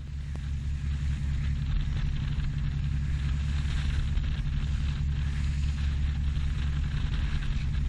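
Inboard diesel engine of a motorsailer running steadily at cruising speed, a constant low drone, with a steady hiss of water and wind over it.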